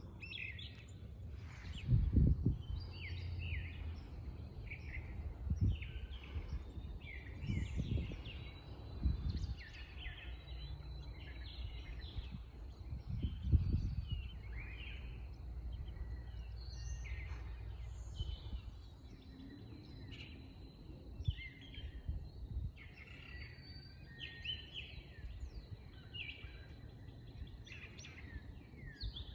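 Wild birds chirping and singing all through, many short calls overlapping, over a low outdoor rumble. A few dull low thumps of wind or handling noise on the microphone stand out, around 2, 8 and 13 seconds in.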